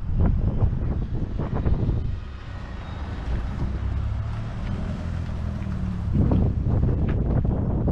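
A car's engine running at low speed as the car pulls up and passes close by. Wind buffets the microphone in gusts, heaviest at the start and again near the end.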